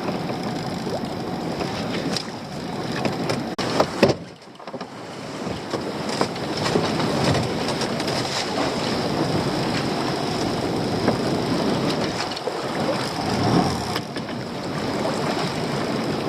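Wind and choppy sea splashing around a small open boat, a steady rushing noise. A couple of knocks of gear on the boat come about four seconds in.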